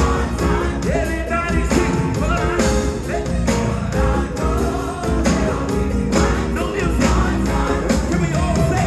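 Gospel choir and band performing: several voices sing over bass and drums.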